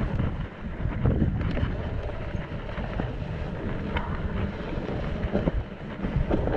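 Wind rushing over the camera microphone while a mountain bike rolls down a wet, muddy trail, with frequent small knocks and rattles from the bike.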